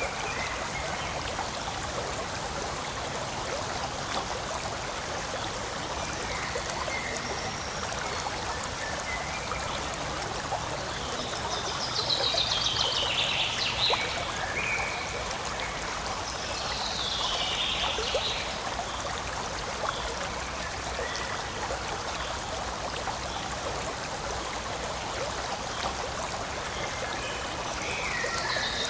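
Forest stream flowing and trickling with a steady rush. A few brief, higher-pitched patches come through about halfway and again near the end.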